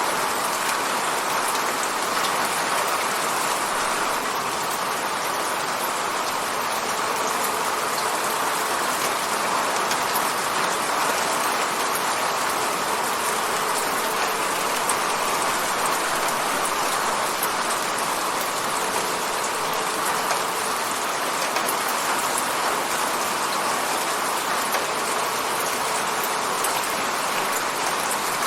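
Steady rain falling against an apartment window: an even, unbroken hiss with fine ticks of individual drops.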